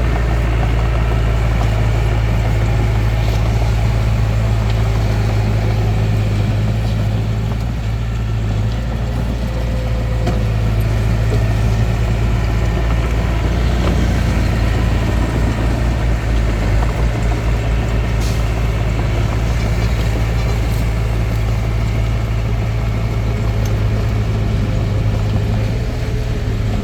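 Hitachi DX45M bulldozer's diesel engine running steadily with a strong low hum that rises and falls slightly, with a few faint clicks.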